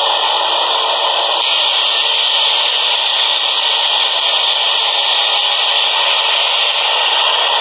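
Subway train running, a loud steady rushing noise with no change in pitch.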